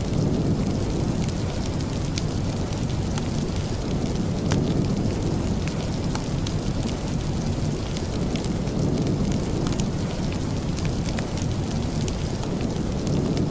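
Steady heavy rain with a deep, even rush, overlaid with scattered sharp crackles from a wood fire in a fireplace.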